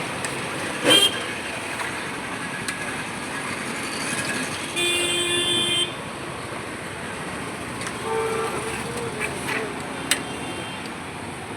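Street traffic noise with vehicle horns: a steady horn blast of about a second near the middle and a shorter horn toot later, over a constant hum of the road. A brief loud sound comes about a second in.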